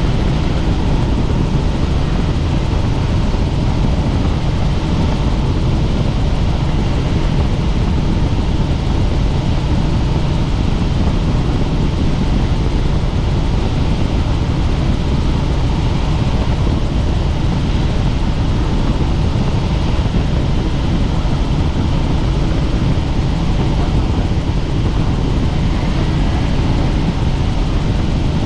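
Helicopter in steady cruising flight: a loud, constant drone of rotor and engine, heaviest in the low end.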